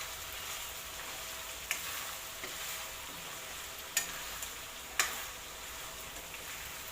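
Ginger and garlic paste sizzling as it fries in hot oil in a pan, being stirred until brown. Three sharp knocks of the stirring utensil against the pan come about two, four and five seconds in.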